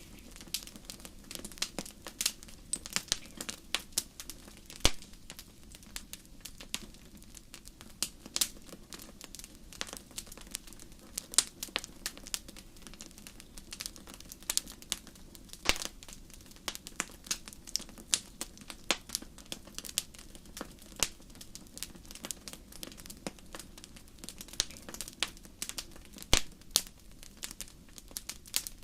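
Fire in a fireplace crackling: frequent, irregular sharp pops and snaps over a faint steady low rumble.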